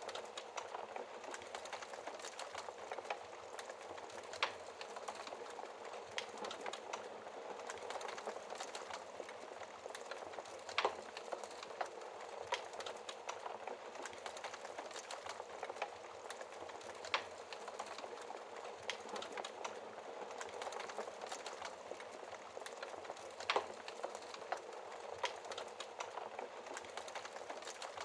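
Fire burning in a fireplace: a steady hiss with constant small crackles and a few louder pops scattered through.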